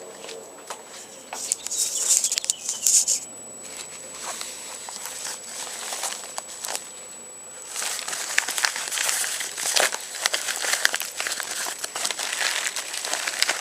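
Shipping package being opened by hand: irregular crinkling, rustling and tearing of the packaging with small clicks, busiest near the start and again through the second half.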